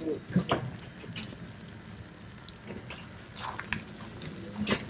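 Rain falling and dripping, with irregular drops and splashes.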